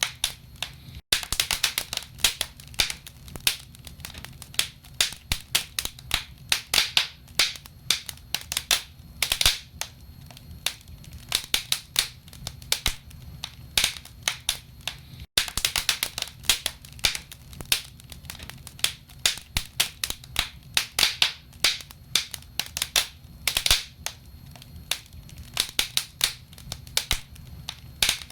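Wood fire burning in a fireplace, crackling with frequent irregular sharp pops and snaps over a low steady rumble. The sound cuts out for an instant about a second in and again about halfway through.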